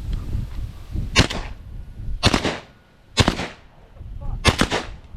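Shotgun shots at flushing pigeons: five blasts, the first three about a second apart and the last two in quick succession near the end, each with a short ringing tail.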